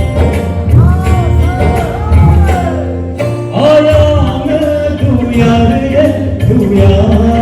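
Live band music with a singer's voice carrying the melody in sweeping, arched phrases over a steady bass and drums. The bass and drums drop out for a moment about three seconds in, then come back.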